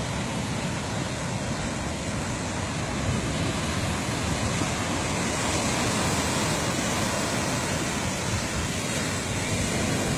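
Surf breaking on the beach: a steady, even wash of noise that swells slightly a few seconds in.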